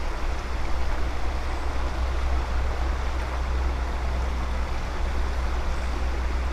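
Fast-running creek water rushing steadily, swollen after rain, with a deep rumble underneath.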